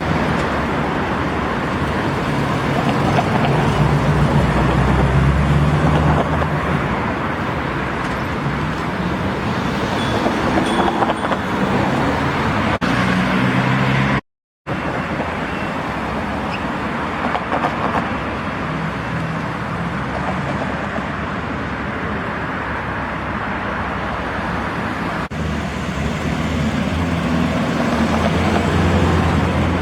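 Classic cars driving past one after another, each engine's sound swelling and fading as it goes by. The sound cuts out completely for a moment about halfway through.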